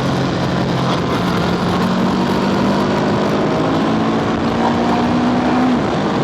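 Scooter engine running under way, its pitch climbing slowly and then dropping away near the end, over a steady rush of wind noise.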